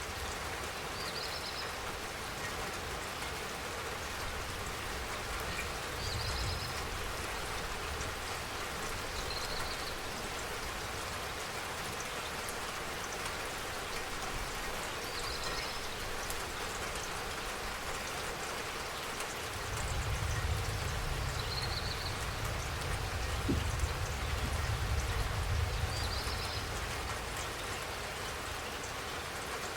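Steady spring rain falling, an even patter of drops. Short high chirps recur every few seconds over it, and a low rumble swells up about two-thirds of the way through before fading.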